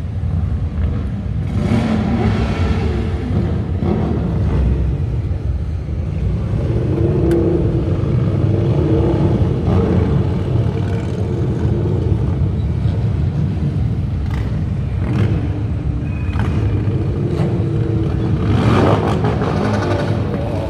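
Motorcycle engines running with a steady low rumble and revving now and then, loudest about two seconds in and again near the end.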